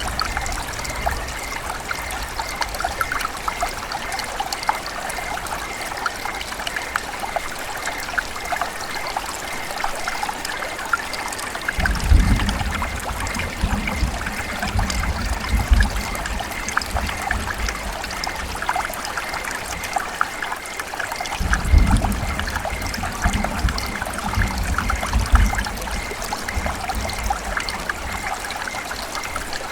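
River water running and trickling in a steady rush full of fine splashes. Twice, about midway and again later, a low rumble rises under it for a few seconds.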